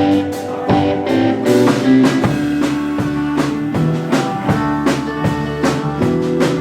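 A live indie rock band playing: guitars over a drum kit with a steady beat, heard through a club's PA.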